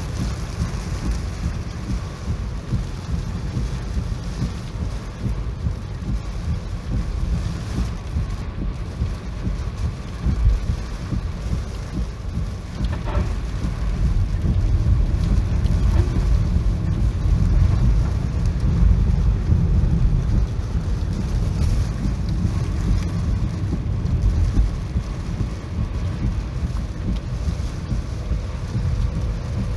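Heavy typhoon rain with a deep, continuous rumble underneath, growing louder in the middle.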